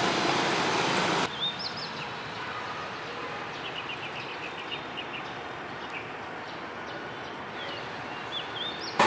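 Street traffic noise for about the first second, then a sudden drop to a quiet outdoor hush where small birds chirp: a few short swooping whistles and a quick run of rapid chirps in the middle.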